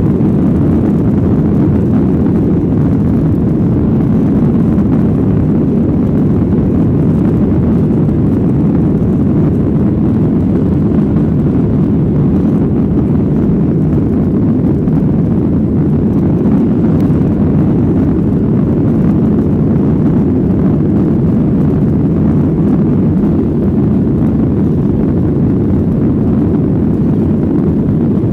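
Boeing 737-800's CFM56 jet engines and airflow heard inside the passenger cabin during takeoff: a loud, steady, deep noise that holds level throughout.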